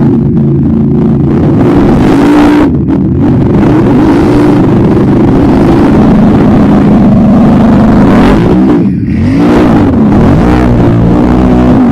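ATV engine running loud, steady at first, then revved up and down over and over in quick swells.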